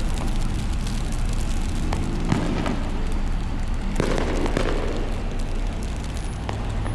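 Steady low rumble of vehicle engines and traffic noise, with a few sharp pops or knocks scattered through it.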